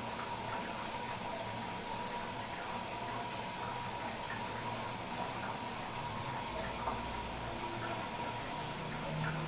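Philco WE852 washing machine taking in water at the start of its wash program: a steady rush of water running into the drum. A low hum briefly joins about seven seconds in.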